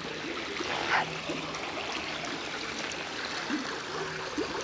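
A small stream running and trickling, with one brief short sound about a second in.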